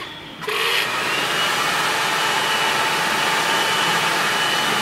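Hair dryer switched on about half a second in, then blowing steadily with a faint motor whine.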